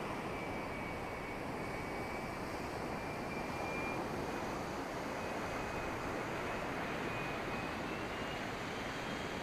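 90mm electric ducted fan of a radio-controlled Hawk model jet whining thinly in flight, its pitch drifting slightly higher toward the end, over steady wind noise.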